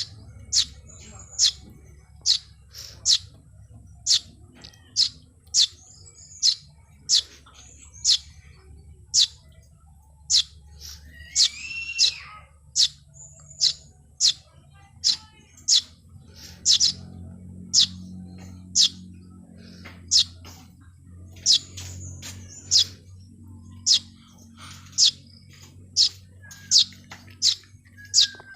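Small birds chirping: short, sharp, high chirps repeated about once or twice a second, with a lower curving call about twelve seconds in. A low steady hum runs underneath.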